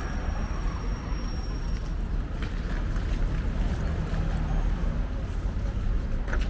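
Outdoor street ambience: a steady low rumble, with a few faint clicks and taps.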